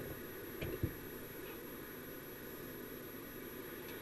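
Steady static hiss from a CB radio receiver between transmissions, with a couple of faint clicks about a second in.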